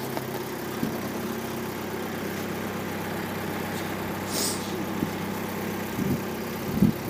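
Vehicle engine idling steadily, with a brief hiss about halfway through and a short voice sound near the end.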